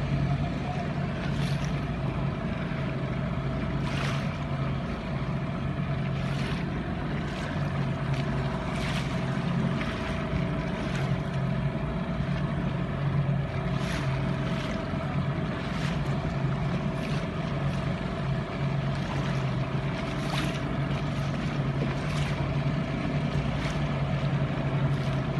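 An engine running steadily with a low hum, while short sharp knocks or splashes come every second or two.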